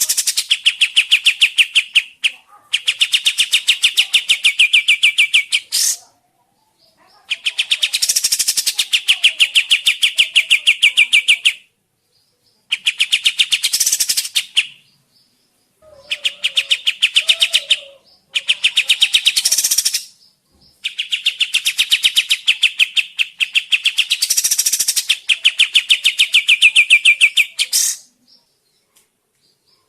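Kapas tembak bulbul song: about seven bursts of very fast, evenly repeated trilled notes, each lasting a few seconds, with short pauses between them. The longest burst comes near the end.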